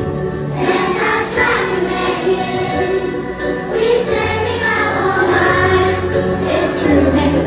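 A choir singing with instrumental accompaniment and a bass line underneath.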